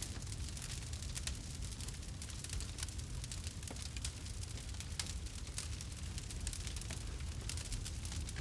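Campfire crackling: many small, irregular pops and snaps over a steady low rumble.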